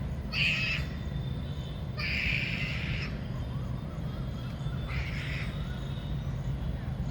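Three harsh bird calls, the second the longest, a couple of seconds apart, over a steady low rumble.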